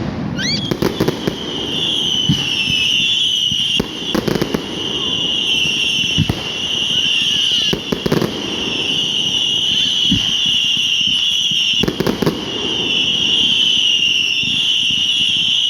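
Fireworks going off: several sharp bangs a few seconds apart over a continuous, slightly wavering high whistle.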